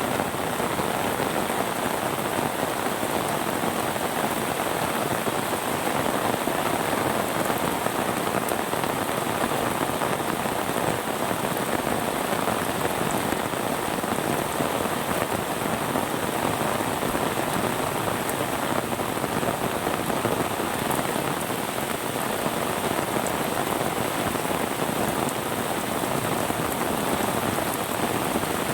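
Steady rain falling on a surface, an even unbroken patter with no thunder.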